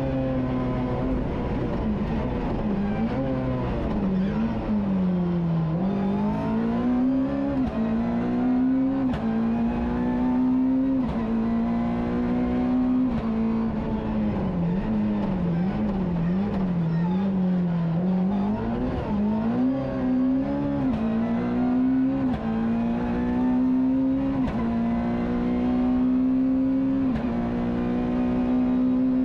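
Rally car engine heard from inside the cabin, accelerating through the gears: the pitch climbs and drops suddenly at each upshift. In the middle the revs waver up and down as the driver lifts and reapplies throttle, then hold steady and high near the end.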